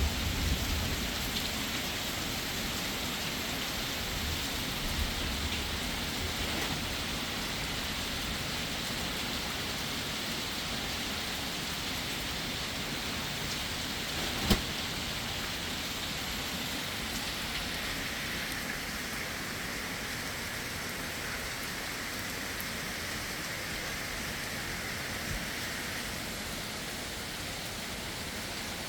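Heavy rain falling steadily, with a low rumble of thunder dying away over the first several seconds. A single sharp tap comes about halfway through.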